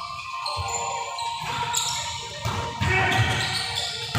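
Balls bouncing repeatedly on a hard floor, echoing in a large hall.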